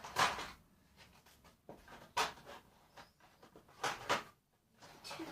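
Toy packaging being handled and pulled at while something is stuck: a few scattered rustles and knocks, several seconds apart.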